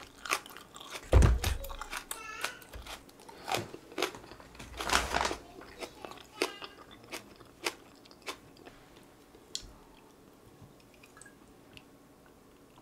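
Close-miked chewing of raw green onion (Korean daepa stalk), with a string of crisp crunches and a loud dull thump about a second in. The crunching thins out and has died away near the end.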